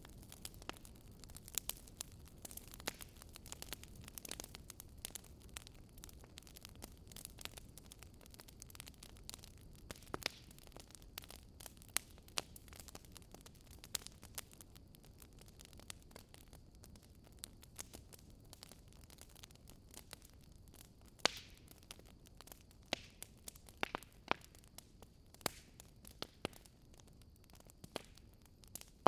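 Campfire crackling: burning wood giving off irregular sharp pops and snaps, the strongest about two-thirds of the way through, over a faint low steady rush.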